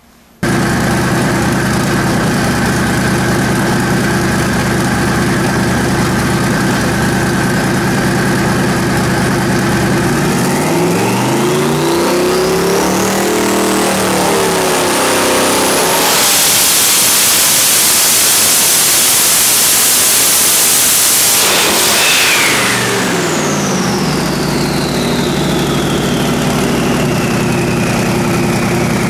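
Twin-turbo 454 cubic inch Ford Windsor V8 running on an engine dyno. It idles steadily, then revs up in a dyno pull with the turbochargers' whine climbing steeply and holds full throttle for several seconds. Once the throttle closes, the turbo whine winds down as the engine drops back to idle.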